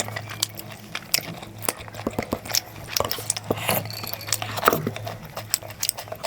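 Close-up eating sounds: bhakka with chicken gravy being chewed, with many short clicks and smacks scattered irregularly over a steady low hum.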